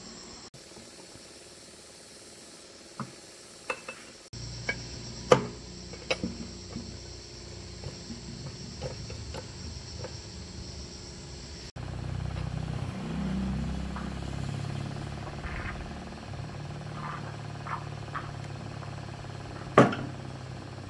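Metal tools clinking and knocking on diesel engine parts in a string of separate sharp knocks, the loudest about five seconds in and just before the end, with a low hum in the second half.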